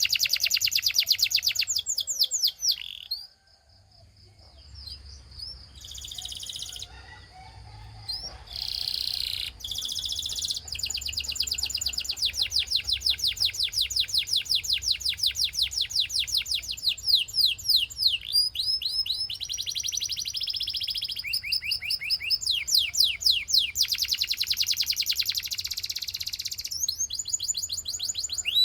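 Canary singing long rolling trills of rapidly repeated high, sweeping notes, with a short break about three seconds in and frequent changes from one trill to the next.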